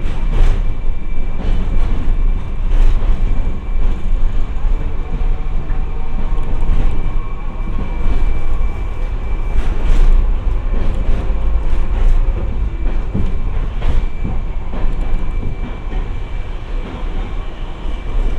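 Hiroden 700-series streetcar No. 701 running, heard from inside the car: a steady low rumble of wheels and motors with irregular sharp clicks from the track and a thin steady high tone.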